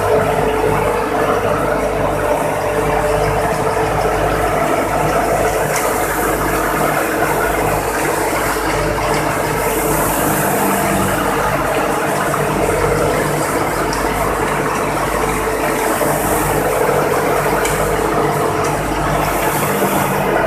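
Tractor-driven wheat thresher running at steady speed while threshing mustard: a dense, even mechanical clatter over the steady drone of the tractor engine driving it.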